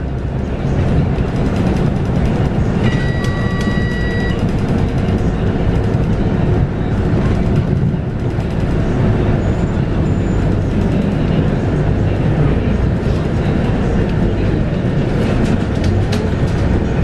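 Scania K230UB city bus under way, heard from on board: its Scania DC9 five-cylinder diesel and ZF Ecomat automatic gearbox running with a steady low rumble. About three seconds in, an electronic beep on board sounds for about a second.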